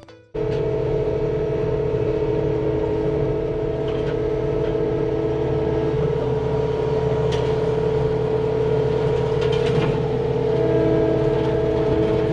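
CAT 259D compact track loader running under power, a steady low engine drone with a high steady whine over it, coming in suddenly just after the start. One tone of the whine drops out about halfway through and returns near the end.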